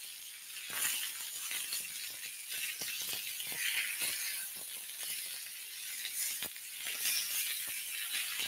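Chicken kebabs sizzling on a hot griddle pan, with frequent light clicks and scrapes of metal tongs turning the skewers.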